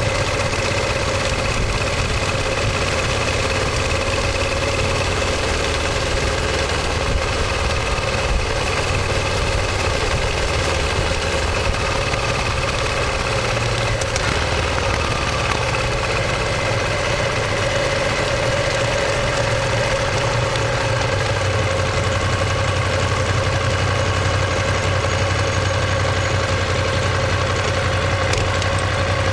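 Ducati Monster 1200 S's L-twin engine and exhaust running at a steady, even speed, with no revving.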